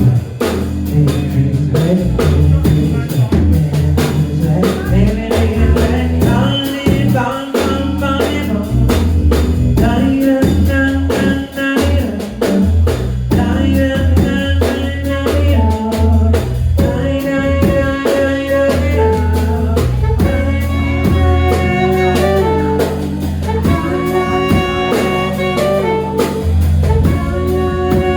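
Band playing an instrumental passage of a pop-jazz arrangement: drum kit keeping the beat under a bass line and keyboard chords, with a melodic lead line carried over the top from about six seconds in.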